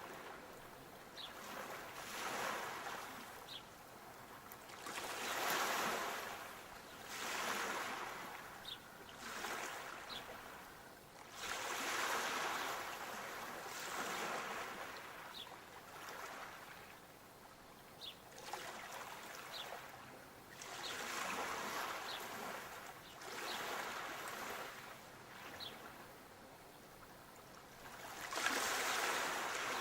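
Sea waves washing onto the shore, swelling and fading again every couple of seconds.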